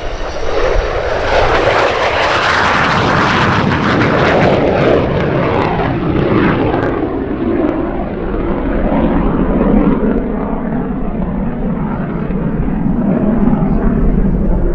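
MiG-17 jet fighter's Klimov VK-1 turbojet passing in a low flyby: a loud jet rush that swells about two seconds in, then falls steadily in pitch as the jet moves away.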